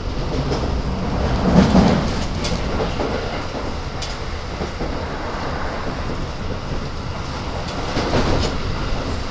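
Keikyu 1000 series commuter train running, heard from inside the passenger car: a steady low rumble with the wheels clicking now and then over rail joints, and a louder rumble about two seconds in.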